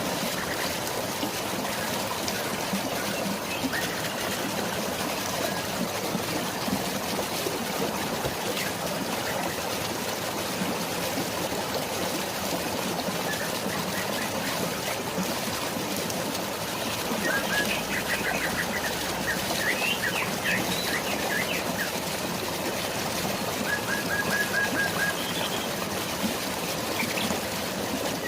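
Steady rush of flowing water and drizzling rain, with birds chirping over it: a quick run of chirps about two-thirds of the way through and a short even trill near the end.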